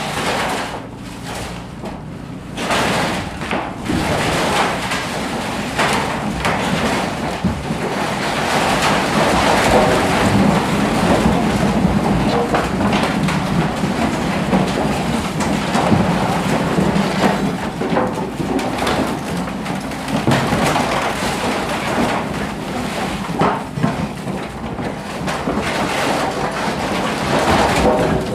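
Excavator demolishing a stacked-stone room: its diesel engine running steadily under a continuous crashing and rattling of stone and rubble.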